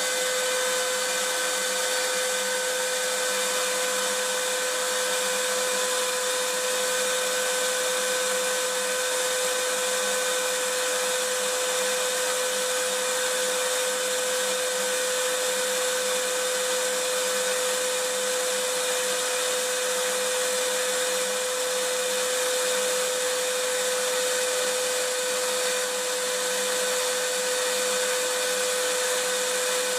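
Vacuum cleaner running steadily: a constant rushing hiss of air over an unchanging motor tone.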